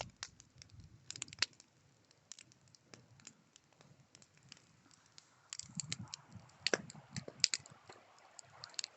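Campfire crackling: irregular sharp snaps and pops of burning wood, with a low rumble of movement from about five and a half seconds in.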